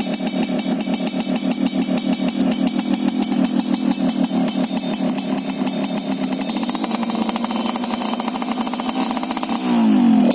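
Yamaha RX-King's 135 cc two-stroke single running through an aftermarket MGM exhaust, idling with a crisp "cring cring" two-stroke note. Engine speed lifts a little after about six seconds, then a quick throttle blip revs it up near the end.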